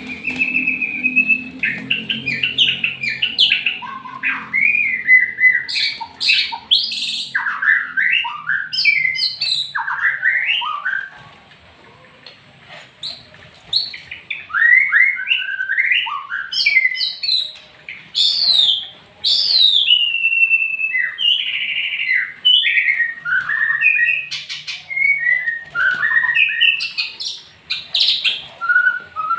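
White-rumped shama (murai batu) singing: a fast, varied run of whistled phrases with rising and falling notes, broken by a pause of about two seconds near the middle.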